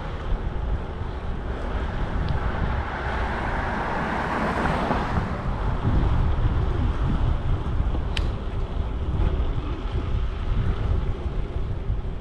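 Wind buffeting the microphone of a camera on a moving bicycle, over steady street and traffic noise. A broad swell of noise rises and falls about four to five seconds in, and there is one sharp click about eight seconds in.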